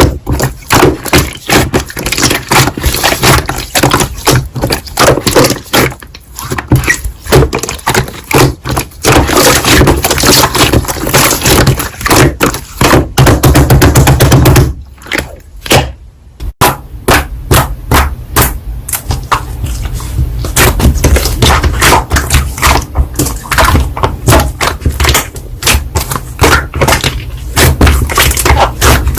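Slime being squished and pressed by hand: a dense run of sticky clicks and pops, with a short break about halfway through.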